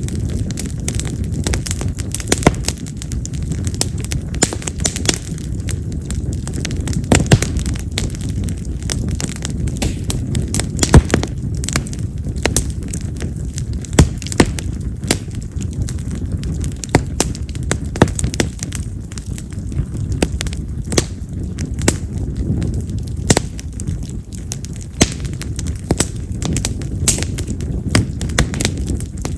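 Wild cherry (yamazakura) firewood burning in an open fire: a steady low rush of flame under frequent sharp crackles and pops, with a few much louder snaps. The popping is the loud, firecracker-like kind typical of burning cherry wood.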